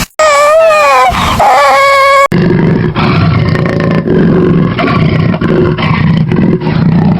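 Animal calls from two clips: first a high, wavering whine-like call, then, after an abrupt cut about two seconds in, a low, rough, continuous growl.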